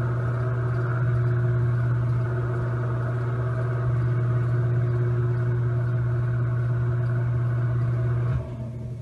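Electric fan running with a steady motor hum and rushing air. Near the end the sound drops sharply and then fades away.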